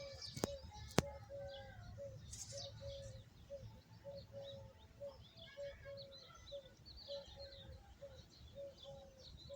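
Several birds chirping, with many small high chirps over a steady series of short, lower repeated notes about twice a second. Two sharp clicks come within the first second, over a low rumble.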